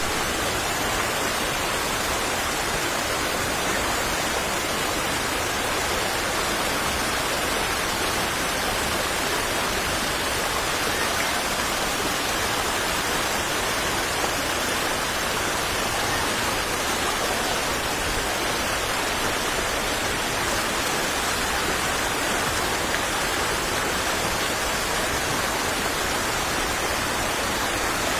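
Waterfall: water falling steadily, one continuous, unchanging rush.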